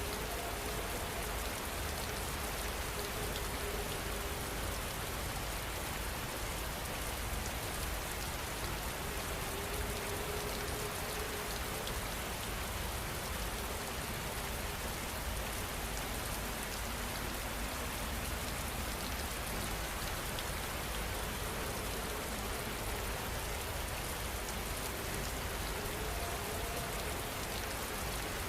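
Steady rainfall, an even unbroken hiss of rain pattering on surfaces with no thunder.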